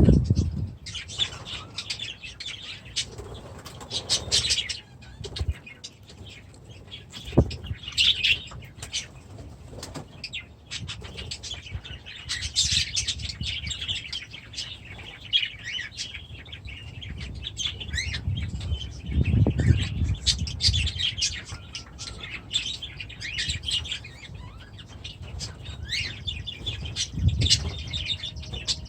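Cockatiels and other aviary birds chirping over and over, with a few bursts of wing flapping, the strongest about two-thirds of the way in and again near the end.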